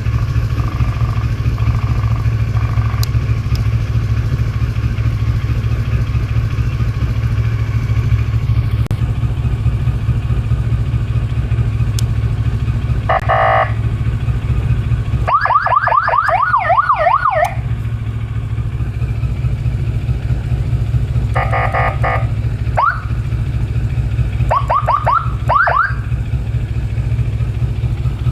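CFMOTO 650TR-G's 650 cc two-cylinder engine idling steadily, while its emergency siren is sounded in short bursts. There is a brief stepped electronic tone, then about two seconds of fast rising yelps. Later comes another short tone burst and a few quick rising chirps.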